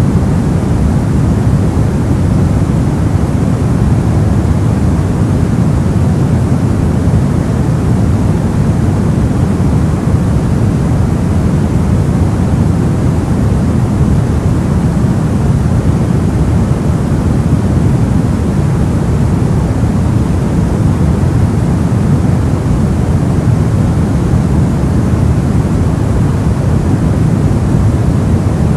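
Soft white noise for sleep: a steady, even, deep rushing hiss that never changes.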